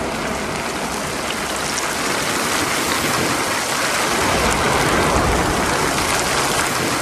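Steady heavy rain, an even rushing noise, growing a little louder with more low rumble about halfway through.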